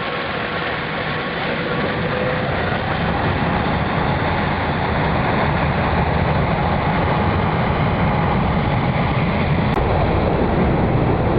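Airbus A380's jet engines at takeoff power: a steady low rumble with a faint whine, growing slowly louder.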